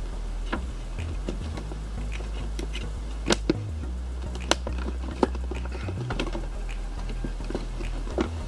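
Figure packaging being handled by hand: a scatter of small clicks, taps and rustles, with a few sharper snaps a little past the middle, over a low steady hum.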